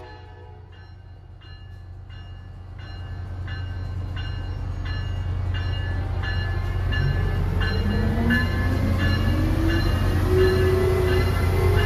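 A train at a station platform, its bell ringing about twice a second over a steady low drone. A rising whine comes in about seven seconds in, and the whole sound grows louder.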